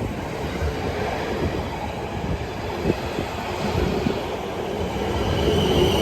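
Electric passenger train running at the platform: a steady rumble of wheels and running gear with a few light knocks, and a high whine coming in near the end.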